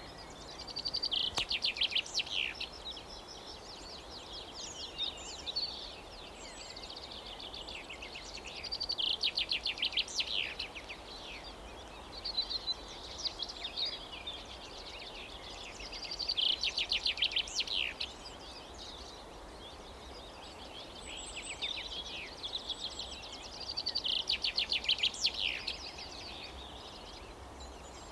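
A songbird singing the same short, rapid trilled phrase of about a second and a half, roughly every seven to eight seconds, with fainter song in between, over a steady low outdoor background noise.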